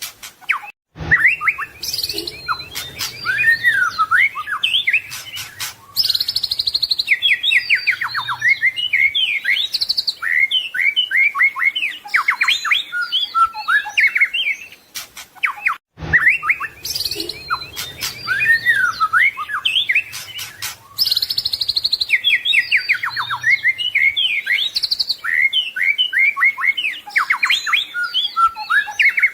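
White-rumped shama (murai batu) singing a fast, varied song of chirps, whistled trills, rapid note runs and clicks. This is a looped tutor recording: the same passage starts over about halfway through.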